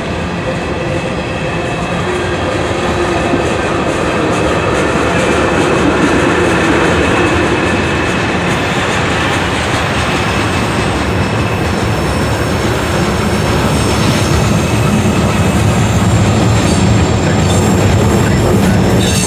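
Freight cars of a CSX manifest train rolling past: a steady rumble of steel wheels on rail, with thin high tones over it, growing slightly louder.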